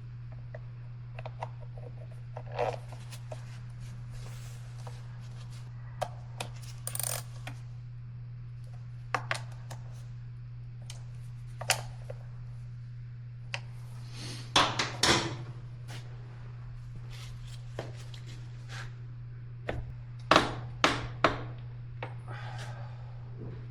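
Scattered metallic clinks and clatters of hand tools and small metal parts being handled, with clusters of sharper clanks about halfway through and again near the end, over a steady low hum.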